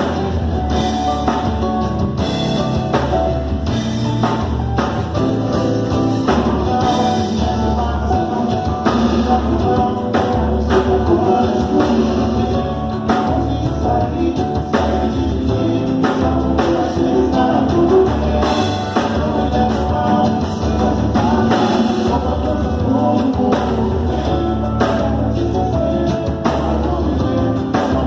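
Live rock band running through a song at a sound check: drum kit and guitar playing steadily, with a singing voice.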